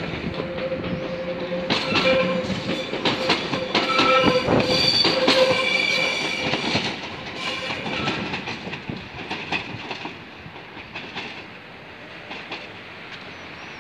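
Ex-London Underground electric train pulling away, its wheels clicking rapidly over rail joints and points with a squeal of several pitches. It is loudest in the first half, then fades as the train draws away.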